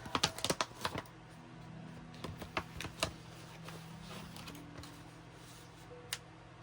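Paper and craft pieces being handled and sorted on a tabletop: a quick run of light clicks and rustles in the first second, then scattered single taps.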